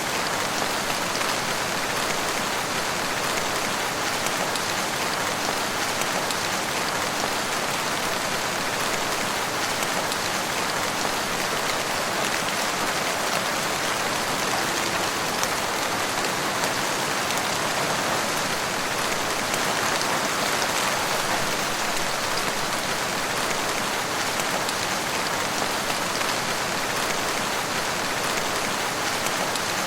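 Steady rain falling in a forest, a constant even hiss of many drops with fine patter on leaves and ground.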